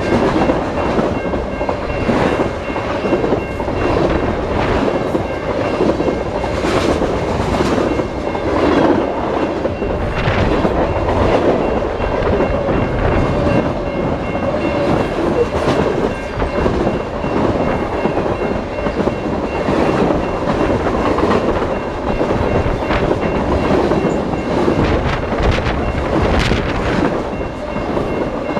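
A CN train passing close by: a continuous loud rumble of steel wheels on the rails, with the cars rattling and irregular sharp clicks and knocks of wheels over rail joints.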